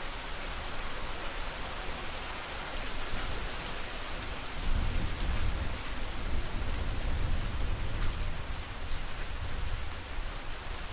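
Steady, even rain hiss, with a low rumble of thunder rising from about halfway through and lasting several seconds.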